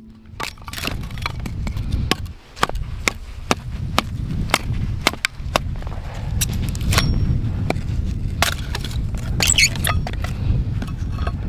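Small dry kindling being chopped: a run of sharp chopping strikes of a blade into wood, about two to three a second, irregularly spaced.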